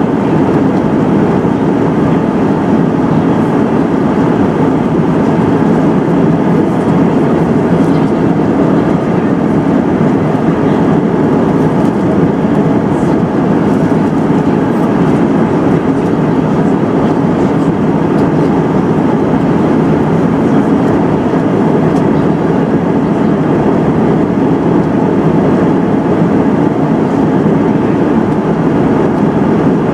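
Steady airliner cabin noise: the jet engines and rushing airflow heard from inside the cabin in flight, an even, unbroken rumble.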